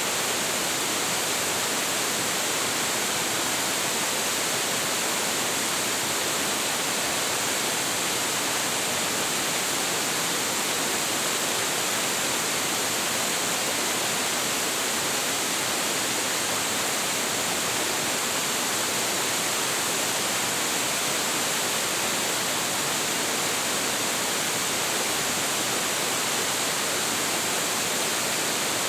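Hiji Falls, a 25.7 m waterfall with a large flow of water, pouring steadily in a dense, unbroken rush of falling water.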